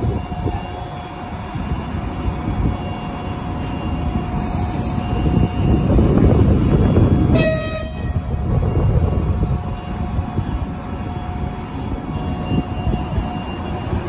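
Railway locomotive and passenger train moving on the track, the running noise carrying a steady whine. About halfway through a locomotive horn gives one short toot.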